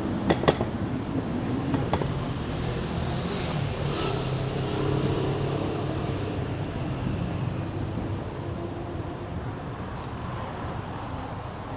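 City street traffic: a motor vehicle's engine passes close by, building up and then slowly fading away. A few sharp clicks sound right at the start.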